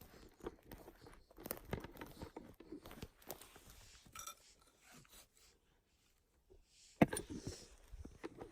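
Footsteps crunching and crackling through leaf litter and twigs on a forest floor, in short uneven steps, with one sharper snap about seven seconds in after a brief pause.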